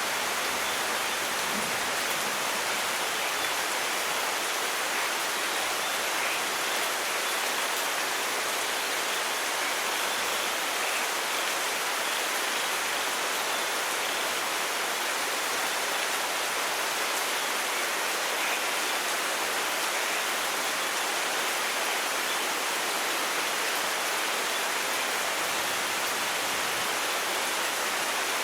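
Steady rain falling, an even hiss that stays level throughout, with no thunder.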